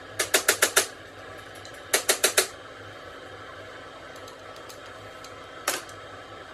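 Sharp taps in quick runs during work on a diesel injection pump: five fast taps in the first second, four more about two seconds in, and a single tap near the end, over a steady low hum.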